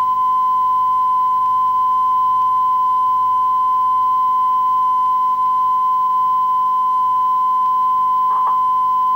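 Steady single-pitch test tone near 1 kHz, the line-up tone a television station sends out after closedown, with a brief glitch about eight seconds in.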